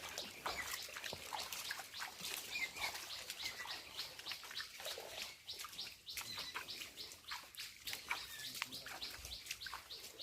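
Birds chirping: a dense, irregular run of short high chirps, with a few brief whistled notes among them.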